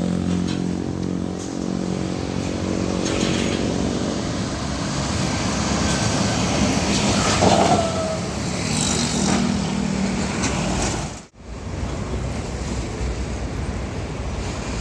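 Heavy diesel trucks driving past on a road, one truck's engine hum fading in the first few seconds over steady road and traffic noise. The sound drops out abruptly for a moment about eleven seconds in, then the road noise resumes.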